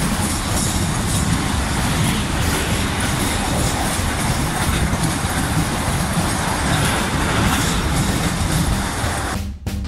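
Container wagons of an intermodal freight train rolling past on the rails: a steady, even rumble of wheels on track, with a brief dropout near the end.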